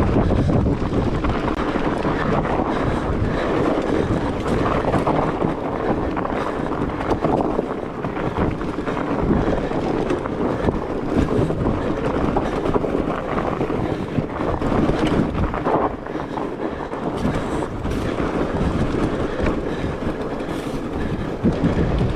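Steady riding noise from a fat bike on studded tires: a rush of wind on the microphone over the rumble of the tires on the trail, with a few light knocks.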